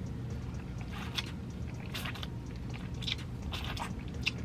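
Close-miked chewing and biting of crispy fried bone-in chicken thighs: scattered short crunches and wet mouth clicks over a steady low hum.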